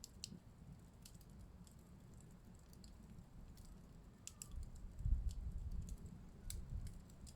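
Wood fire crackling, with scattered sharp pops and snaps. A low rumble swells in about two-thirds of the way through.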